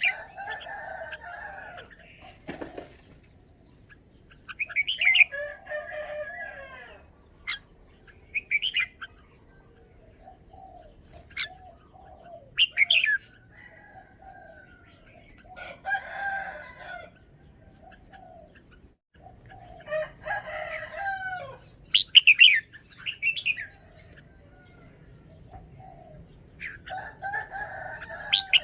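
Caged red-whiskered bulbul singing: short, loud whistled phrases repeated every few seconds, about eight in all, with soft twittering between them.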